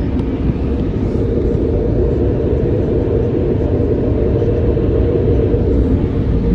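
Car wash air-dryer blowers running, heard from inside the car: a loud, steady rush that sounds like thunder, growing slightly louder as the car moves under them.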